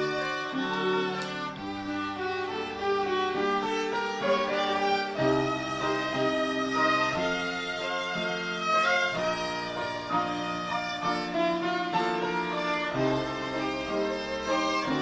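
Ensemble of kobyz, the Kazakh two-string bowed fiddle, playing a melody. The bowed notes are held and change about once a second.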